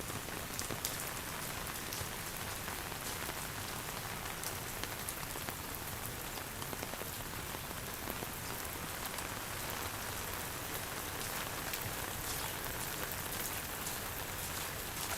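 Steady rain falling, with many small sharp drop taps scattered through an even hiss.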